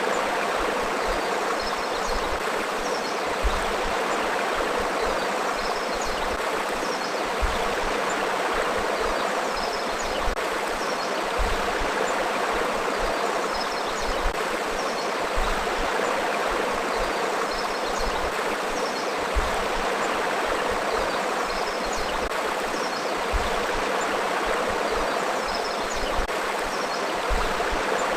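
Forest river flowing: a steady rush of running water with burbling over rocks.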